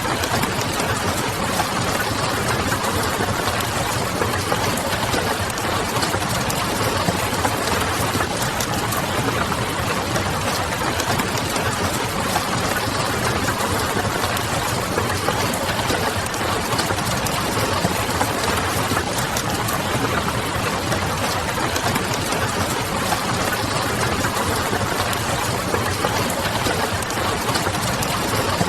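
Steady rain with the small crackles of a wood fire scattered through it, over a low steady hum.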